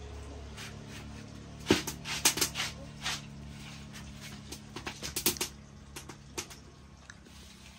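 Scattered sharp clicks and knocks, loudest in a cluster about two seconds in and again around five seconds, over a low steady hum.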